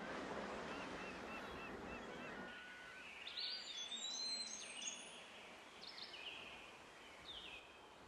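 Faint birdsong over a steady hiss: a run of short repeated chirps, then from about two and a half seconds in, higher whistled calls that slide in pitch, coming and going.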